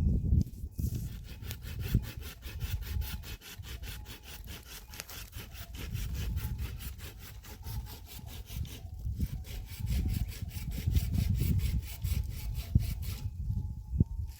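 Hand saw cutting through firewood with quick, even back-and-forth strokes, stopping about a second before the end.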